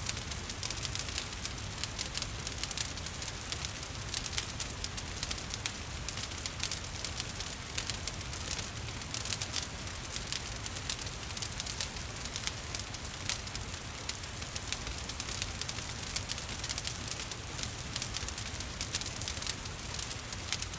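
Wood fire crackling with frequent irregular pops and snaps, over a steady hiss of rain and a low rumble.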